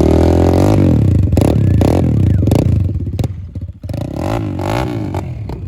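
Small pit bike engines running and being revved up and down repeatedly as they warm up, the revs dropping off briefly about three seconds in before blipping again.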